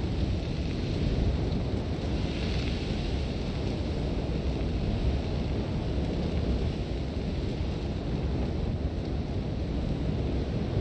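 Sandstorm wind blowing hard and steadily, a deep rumble with wind buffeting the microphone. A brief hissing gust of blown sand comes about two seconds in.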